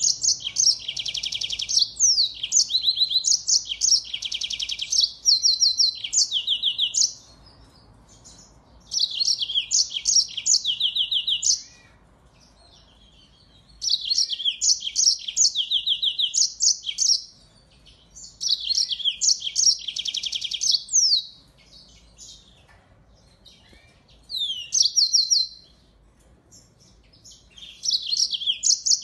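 A small finch singing clear songs in repeated bouts of a few seconds each: quick, high trills and chirping phrases with short pauses between them, about six bouts in all.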